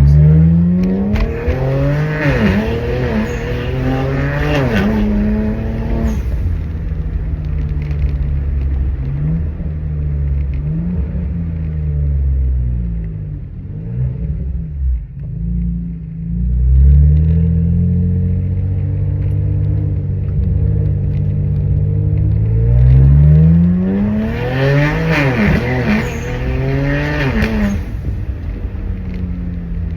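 BMW N54 twin-turbo straight-six with its mufflers deleted, catless downpipes and secondary cats removed, pulling hard under acceleration: the exhaust pitch climbs and drops back at each gear change over the first several seconds. It settles into lighter throttle with the pitch wandering, then makes a second hard pull through the gears near the end.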